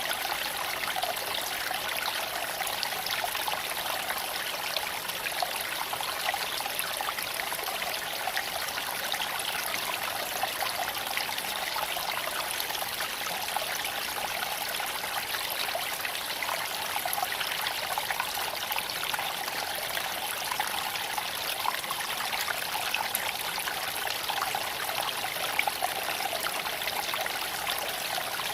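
Creek water flowing steadily over stones, a constant trickling rush.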